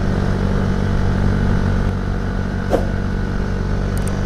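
Motorcycle engine running steadily while riding, with one short knock about two and a half seconds in.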